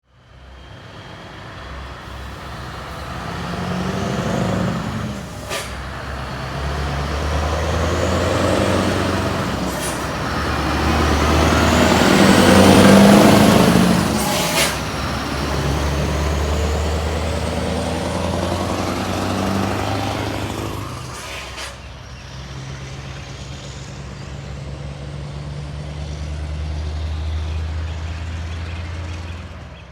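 Scania R560's V8 diesel engine under load, working through the gears: the engine note drops out briefly at each of several shifts, marked by short sharp hisses. A high turbo whistle rises and falls with the revs, and the truck is loudest about halfway.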